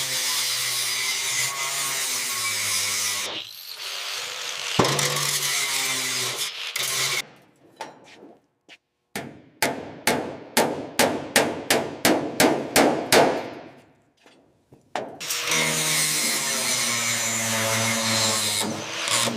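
A power tool running in spells, with a run of about a dozen sharp hammer strikes, about three a second, in the middle, where the tool stops.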